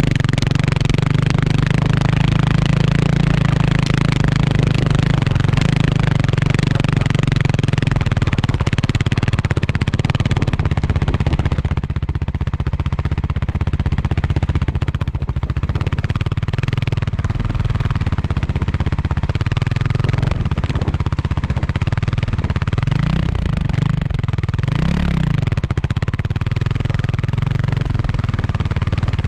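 Kawasaki KLX300R's single-cylinder four-stroke engine running steadily under way on a trail ride, with noisy rush over it; near the end the engine revs up and drops back twice in quick succession.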